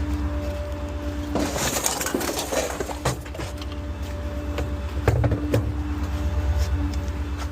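Small rear-loader garbage truck on a Ford F-550 chassis running, a steady low engine drone with a steady whine over it, and bursts of clattering and knocks, one about a second and a half to three seconds in and another around five seconds in.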